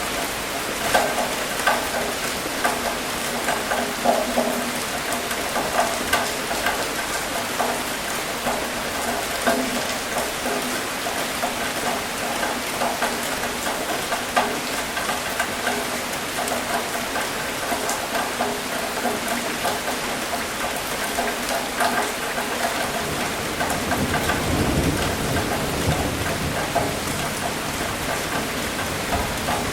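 Steady rain with many individual drops ticking on a surface. A low rumble of thunder rises and fades about three quarters of the way through.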